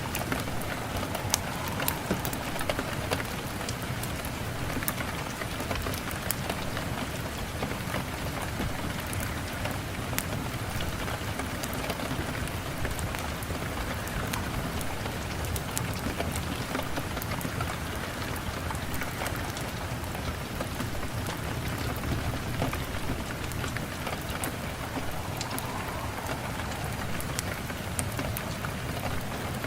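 Steady rain falling, an even hiss with many scattered sharp clicks and ticks through it.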